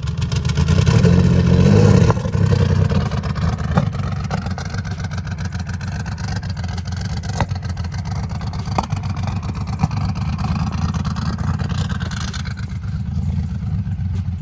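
Turbocharged Dodge Dakota engine revving hard, loudest about a second in, then dropping off suddenly and running on steadily, with a few sharp clicks.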